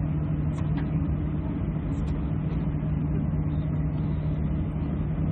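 Steady low drone inside an airliner cabin while the aircraft holds on the ground, with a constant low hum and no change in level.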